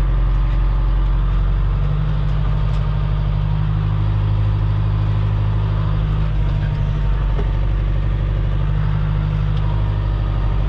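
Loader's engine running steadily as the machine drives and drags its bucket in float position over gravel road base.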